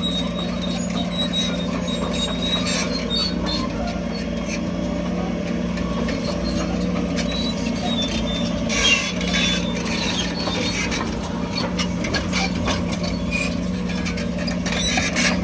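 Heavy diesel earthmoving machinery running steadily, with intermittent high squeaks and clicks and a brief louder rise about nine seconds in.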